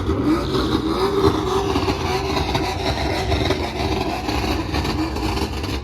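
Car engine revving up and down over and over, its pitch rising and falling several times over a steady low exhaust rumble.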